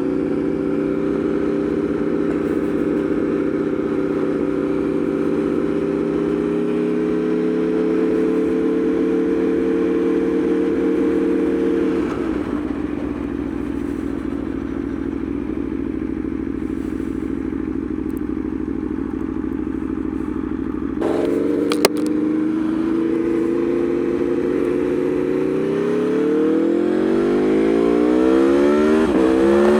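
Aprilia Tuono V4's V4 engine under way. It holds a steady note that creeps up in pitch, drops suddenly about twelve seconds in as the throttle closes, and stays lower. Just past twenty seconds there is a sharp click, and near the end the revs climb steeply as it accelerates hard.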